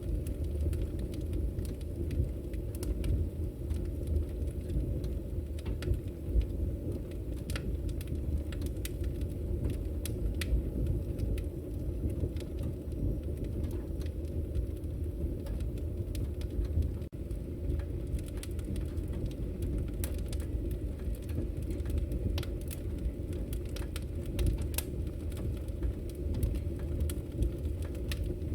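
Bonfire burning: a steady low rumble of the flames with irregular sharp crackles from the burning wood.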